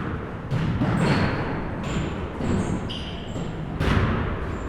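Basketball bouncing on a gym floor, several separate thuds, with short high sneaker squeaks in between, echoing in the hall.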